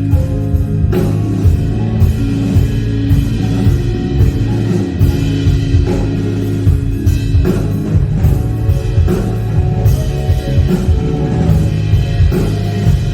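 Live band playing an instrumental passage with a steady beat on drum kit, over sustained bass notes and electric guitar.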